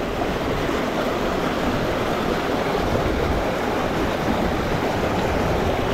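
Steady rushing noise with no break, heaviest in the low end.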